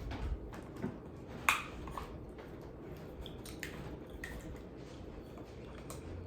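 Eating sounds: chewing and biting into food, with scattered small clicks and one sharp, loud crunch or click about a second and a half in.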